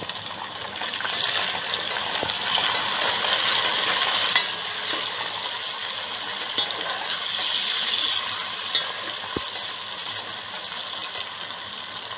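Onions, green chilies and freshly added tomato pieces sizzling in oil in a large pot while a spatula stirs them. The sizzle swells during the stirring, with a few sharp clicks of the spatula against the pot.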